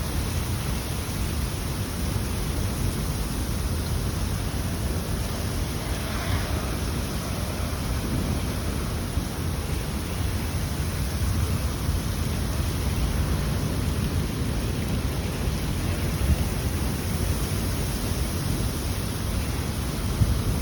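Thunderstorm noise: steady wind and rain with a heavy low rumble.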